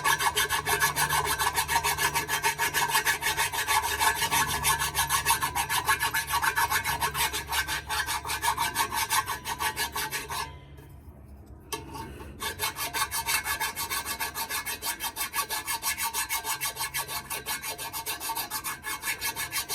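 Single-cut hand file scraped in quick repeated strokes flat across metal to take off a burr, a rasping scrape on each stroke. The strokes stop for about a second and a half midway, then start again.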